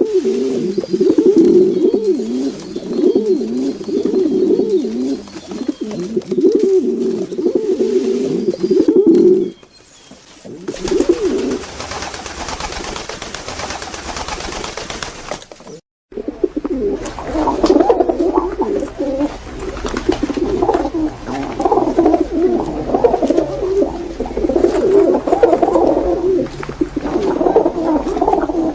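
Pigeons cooing: several birds with overlapping, wavering coos. A stretch of even hiss with hardly any cooing fills the middle, then it cuts off abruptly and the cooing resumes.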